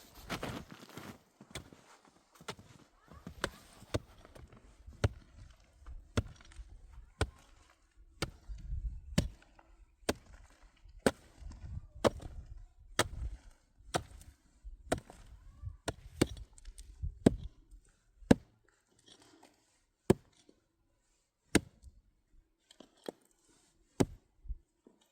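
Repeated sharp chopping strikes, about one a second, many with a dull low thud behind them. They thin out to a stroke every second or two near the end.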